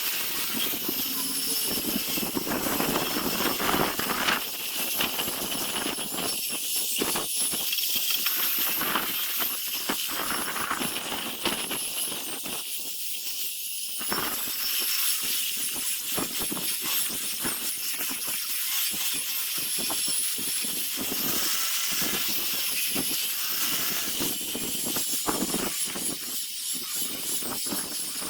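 A power sanding tool abrading zelkova root wood during its first rough sanding: a steady hiss with a faint wavering high whine, its grit scratching unevenly against the wood.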